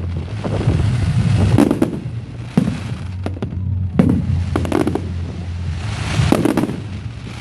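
Display fireworks bursting in the sky: a run of sharp bangs about a second apart, each trailed by crackling, over a steady low hum.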